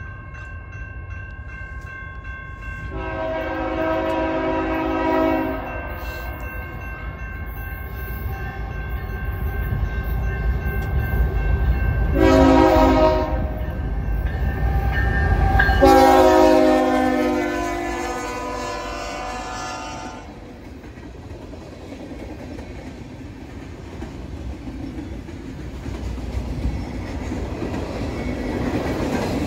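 CN freight locomotive's horn sounding three blasts, long, short, then long, over the low rumble of its diesel engine as it approaches and passes. Then a rolling, clattering noise of freight cars and tank cars going by on the rails, growing louder near the end.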